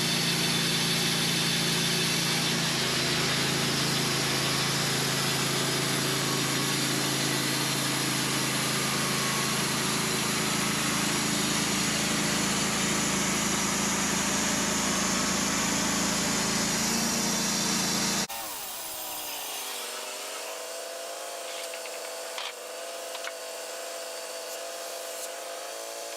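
Wood-Mizer LT15 portable bandsaw mill running steadily as its blade cuts through a black cherry log. About two-thirds of the way in, the sound switches abruptly to a quieter one with a tone that falls and then holds steady.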